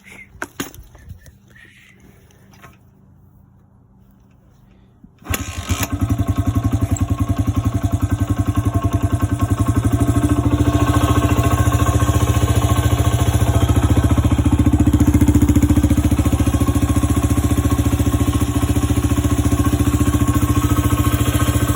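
Honda XR100R's small single-cylinder four-stroke engine starting from cold: a few knocks, then about five seconds in it catches and settles into a steady, rapidly pulsing run.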